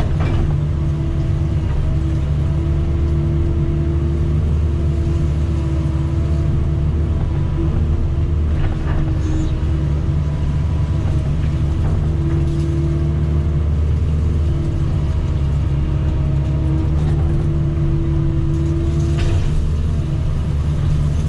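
Diesel engine of heavy earthmoving equipment running steadily while working, with a droning tone that swells and fades several times and a few faint knocks.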